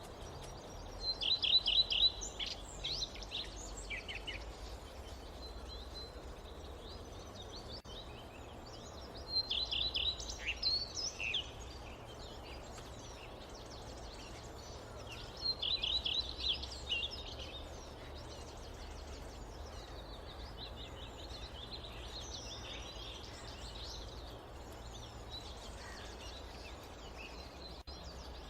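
Wild songbirds singing in a forest over a steady low background hum. Three loud bursts of fast, high trilled song come about 1 s, 9 s and 15.5 s in, with softer scattered calls between them.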